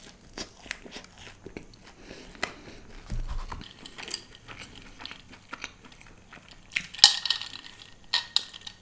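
A person chewing food close to the microphone, with soft crunching and small clicks, then a loud sip from a glass of cola about seven seconds in.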